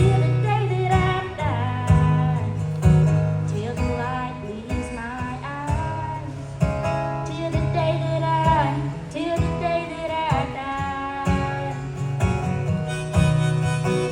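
A woman singing a slow country-style song over a strummed acoustic guitar.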